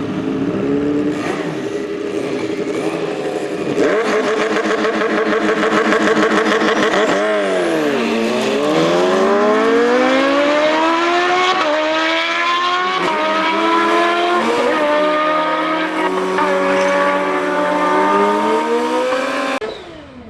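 A superbike's inline-four engine at hard acceleration, its pitch climbing and then dropping back at each of several quick upshifts in the second half. The sound cuts off abruptly shortly before the end.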